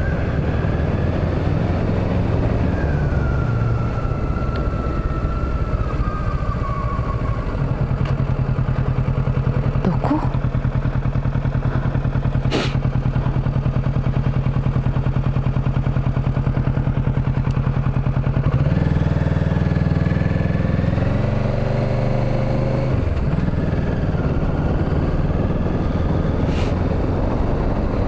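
Kawasaki Ninja 650's parallel-twin engine running steadily as the motorcycle is ridden, over a steady rush of wind noise. The engine note shifts about eight seconds in and again around eighteen seconds in.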